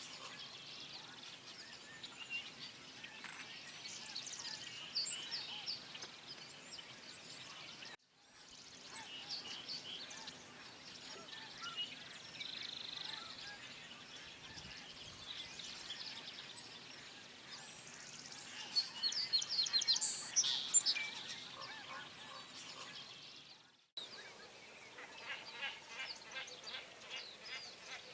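A chorus of many birds calling over one another in short, high overlapping calls. The calls grow louder and denser about twenty seconds in. The sound breaks off abruptly twice.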